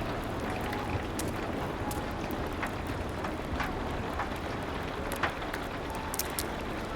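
Steady rain hiss with a wood fire crackling over it, in scattered sharp pops, one louder pop about five seconds in.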